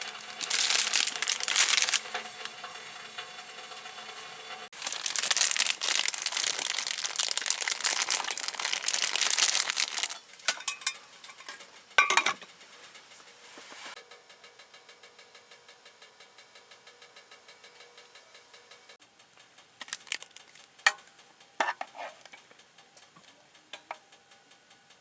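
Sizzling in a hot pan, loud in two spells in the first ten seconds, then settling to a quieter steady sizzle with a few clinks of utensils on the pan.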